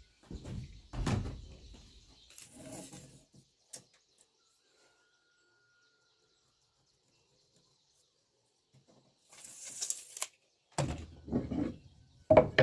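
Wooden parts knocked and scraped against each other: several knocks in the first three seconds, a few seconds of near silence, a brief hissing scrape, then a few heavier knocks near the end.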